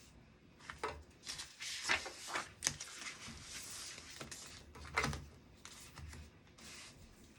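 Desk handling noise: a run of rustles, clicks and light knocks of things being moved about on a desk. It is busiest a second or two in, with one more knock about five seconds in.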